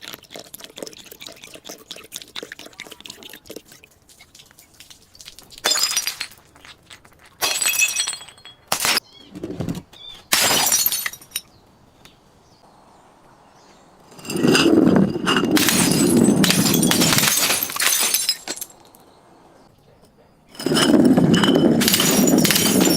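Glass breaking and being crushed: a light crackling, then several short sharp breaks, then two long stretches of loud, dense crunching.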